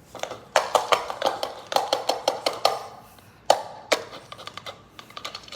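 Dog food clinking against a food bowl in a rapid, irregular series of taps and clinks, with one sharper knock about three and a half seconds in.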